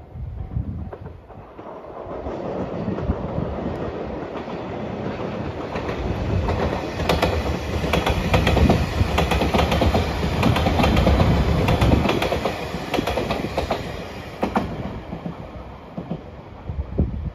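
A JR Shikoku 8000-series electric limited express train passes close by. Its running noise swells over the first few seconds, with a rapid clickety-clack of wheels over rail joints at its loudest through the middle, then dies away as the train recedes.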